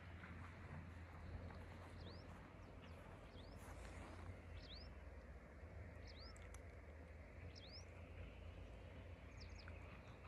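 Quiet open-air ambience: a bird repeats a short, high, upward-sweeping chirp about every one and a half seconds over a faint, steady low rumble.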